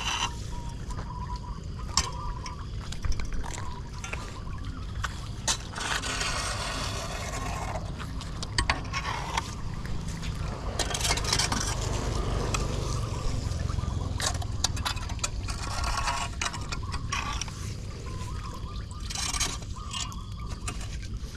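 Floodwater running and gurgling into a street storm drain, with louder splashing surges every few seconds.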